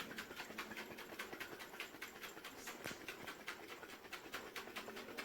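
Lidded jar of hot espresso and ice cream being shaken by hand: a faint, even sloshing rhythm of several strokes a second, mixing the coffee so the ice cream melts.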